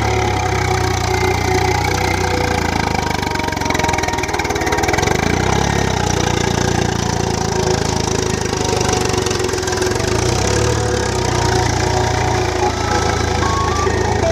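Swaraj tractor's diesel engine running steadily.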